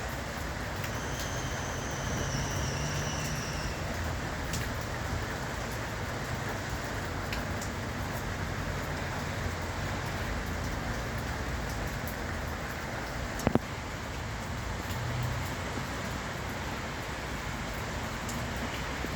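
Steady wash of rain and road traffic with a low vehicle rumble underneath. A faint high squeal comes in about a second in and lasts a couple of seconds, and there is one sharp click about two-thirds of the way through.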